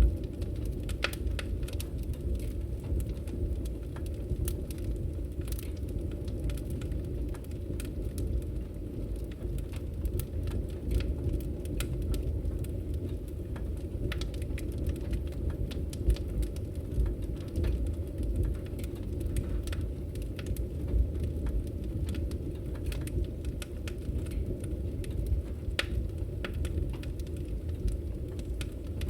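Wood fire crackling in a fireplace: irregular sharp pops and snaps of burning firewood over a steady low rumble.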